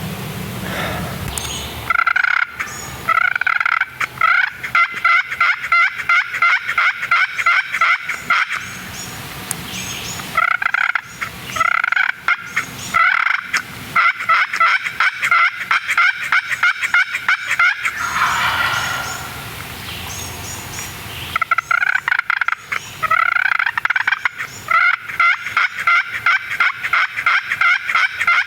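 Turkey calling: three long runs of rapid, repeated notes, each lasting about six seconds, with short pauses between them.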